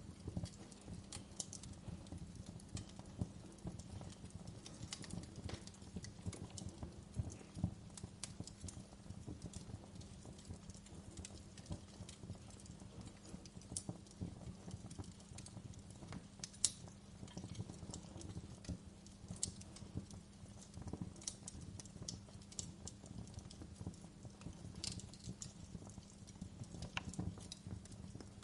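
Wood fire crackling in a fireplace: a steady stream of small crackles and snaps over a low bed of burning, with two louder pops, one about seven seconds in and one a little past halfway.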